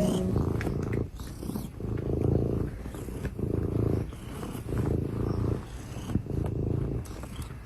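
Domestic cat purring close to the microphone, a low rumble that swells and eases about every second and a half with its breathing.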